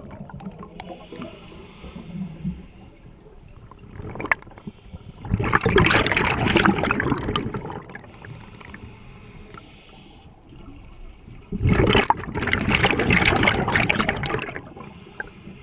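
Scuba diver's regulator underwater: two long gurgling rushes of exhaled bubbles about six seconds apart, with quieter breathing between.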